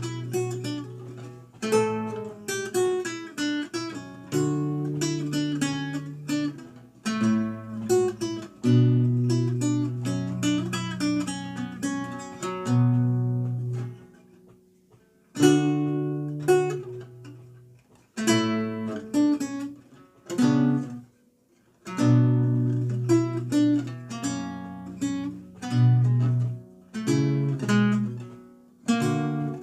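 Renaissance lute played solo: plucked chords and running melodic lines in phrases, with a few short breaks between them, the longest about halfway through.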